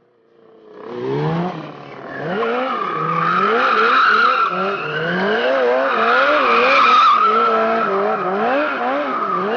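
Stunt motorcycle engine revved up and down about once a second, starting about a second in, with a steady tyre squeal from a tyre sliding on the pavement.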